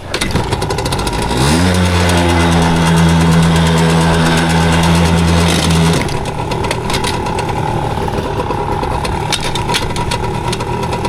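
Yamaha PW80's small two-stroke single-cylinder engine running. About a second and a half in it revs up and holds a steady higher note for about four seconds, then drops back to idle.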